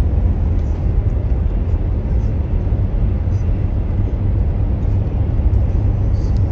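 Steady low road rumble and engine noise heard from inside a moving car's cabin, without a break or change.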